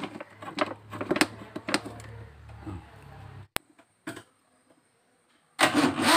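Irregular mechanical clicking and knocking of hand work over a faint low hum, a sharp click, a pause, then a loud rhythmic rasping of about five strokes a second starting near the end.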